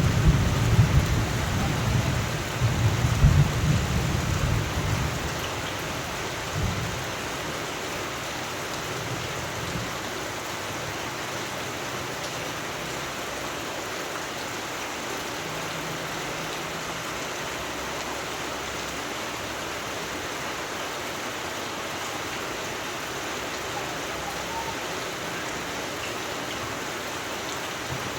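Steady rain falling, with a roll of thunder rumbling through the first several seconds and dying away about seven seconds in.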